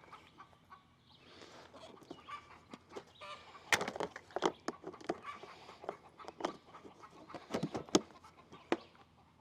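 Chickens clucking: a series of short, sharp clucks, loudest a little under four seconds in and again around eight seconds in.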